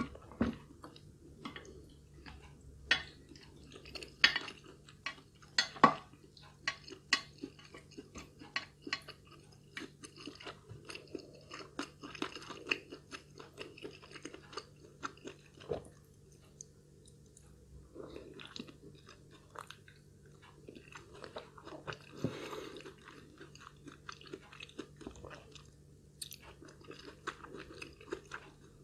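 A person chewing food close to the microphone, with frequent wet clicks and crisp crunches at an uneven pace.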